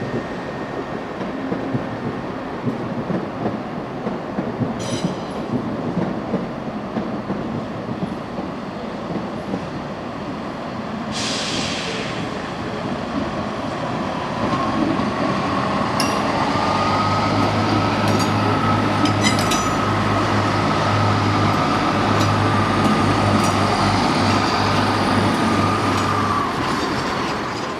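A train moving through the station: a steady rumble of wheels on rail and running gear. A short hiss comes about eleven seconds in. About halfway through the train grows louder, with a steady whine and a low hum, and scattered clicks and squeaks from the wheels.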